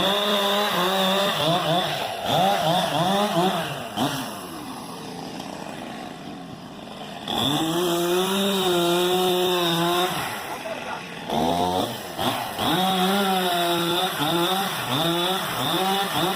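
Chainsaw revving and cutting into a fallen coconut palm, its pitch rising and falling. It drops back to a lower, quieter run about four to seven seconds in, then holds a long steady cut before revving up and down again.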